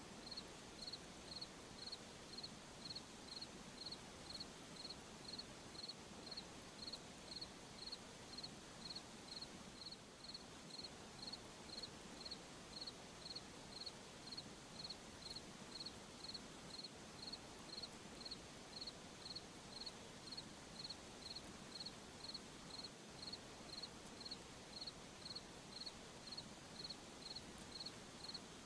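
A cricket chirping steadily, about two short chirps a second, over a faint background hiss.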